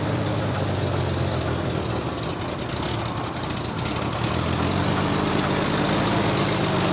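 1931 Chevrolet's overhead-valve straight-six engine running steadily, freshly tuned with new ignition parts and a valve adjustment. Its note eases off slightly midway and then comes back up.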